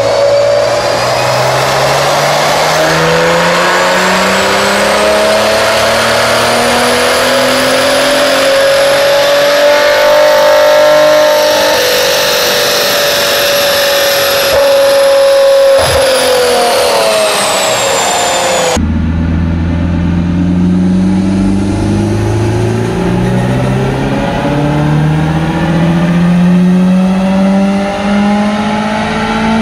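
Maserati Ghibli engine on a chassis dyno, revving up in one long climb through the first ten seconds or so, holding near the top and easing off slightly. About two-thirds of the way in it cuts to a Subaru Impreza WRX STI engine on full throttle, its revs climbing steadily toward 7,000 rpm.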